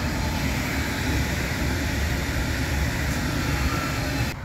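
Electric multiple-unit passenger train passing close by: a steady rumble of wheels on rails and running gear. The sound cuts off abruptly near the end.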